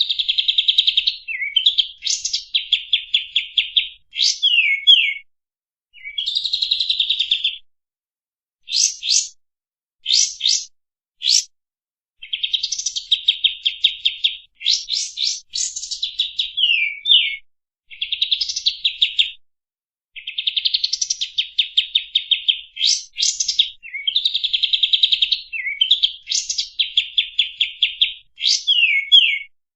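Kapas tembak birdsong used as a masteran training recording: phrases of rapid, buzzy trilled chatter with quick downward-sliding notes, repeated over and over with short pauses between them.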